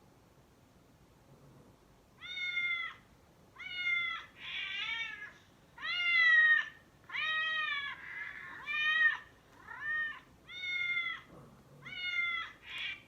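Cat meowing over and over, played back as a recording: about nine short meows, each rising then falling in pitch, starting about two seconds in, with a few rougher, noisier calls mixed in between.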